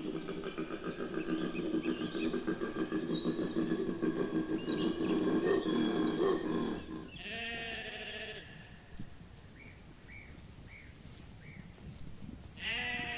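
Bleating livestock: a dense, wavering chorus of calls for about seven seconds, then two single quavering bleats about five seconds apart, with four short high chirps between them.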